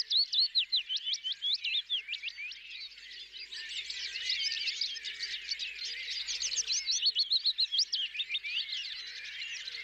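A dense chorus of many small birds calling and singing at once, quick high chirps overlapping one another.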